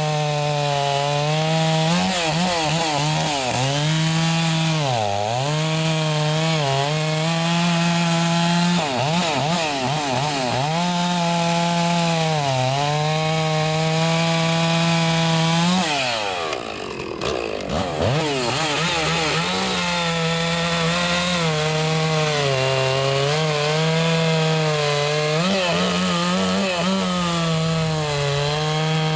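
Stihl two-stroke chainsaw running at full throttle and cutting through wood, its pitch sagging again and again as the chain bogs in each cut and climbing back as it clears. About halfway through, the throttle drops off briefly and the saw revs back up.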